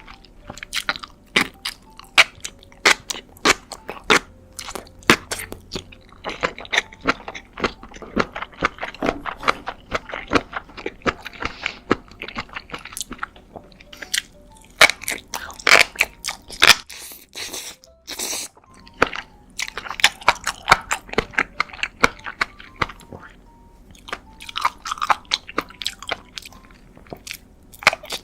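Close-miked chewing of noodles: a dense, irregular run of wet smacks and sharp mouth clicks.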